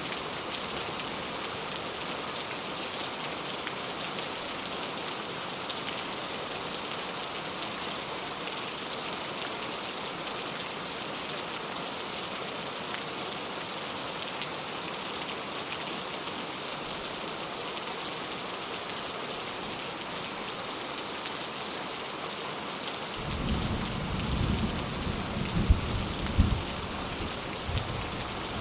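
Steady rain falling as an even hiss, with a low rumble of thunder building about 23 seconds in and cracking twice at its loudest before it fades near the end.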